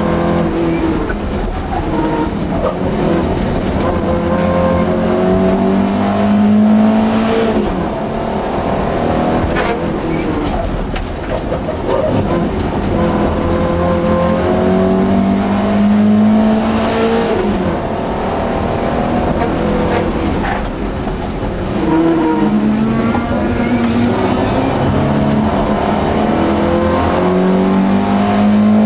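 Volvo 242 GT rally car's four-cylinder engine heard from inside the cabin, revving hard and easing off again and again as it is driven flat out through the course. The engine pitch climbs steeply several times, then drops back for shifts and corners.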